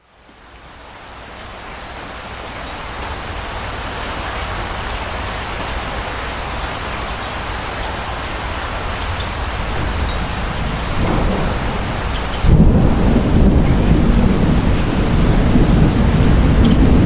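Steady rain fading in, with thunder rumbling in low and growing suddenly louder about twelve seconds in.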